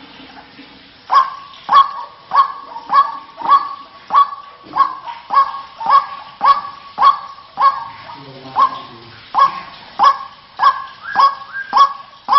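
White-breasted waterhen (ruak-ruak) calling: a monotonous series of short, sharp honking notes repeated about one and a half to two times a second, starting about a second in.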